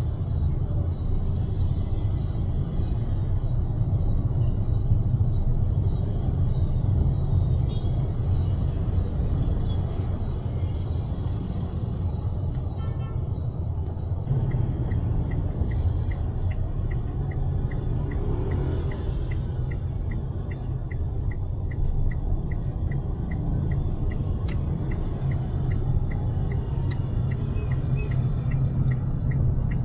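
Steady low road rumble of a car heard from inside the cabin. About halfway through, the turn-signal indicator starts ticking evenly, about one and a half ticks a second.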